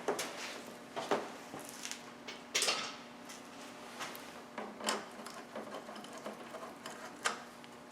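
Scattered metallic clicks and clinks of a wrench working on a 12 mm fuel line fitting, a few louder knocks among lighter taps.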